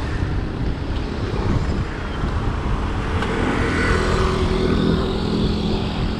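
Road traffic heard from a moving bicycle: wind rumbling on the microphone, and a motor vehicle engine humming steadily close by from about three seconds in.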